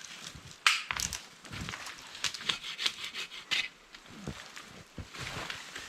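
Wooden branches being handled and set up: irregular snaps, knocks and scraping rubs of wood, loudest about a second in and again about three and a half seconds in.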